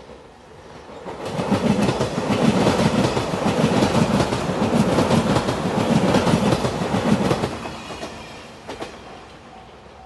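JR Shikoku 8000 series electric limited express passing close by at speed, its wheels clattering rhythmically over the rail joints. The sound builds about a second in, stays loud for several seconds, then fades away.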